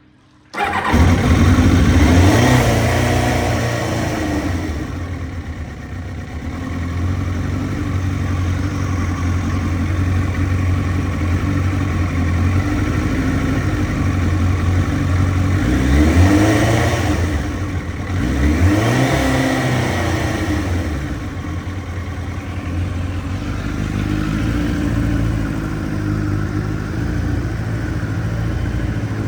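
Kawasaki ZXR750R's inline-four engine, breathing through a full Micron exhaust, comes in suddenly about half a second in. It runs with a few revs that climb and fall back, one early on and two in quick succession past the middle, and settles to steadier running in between.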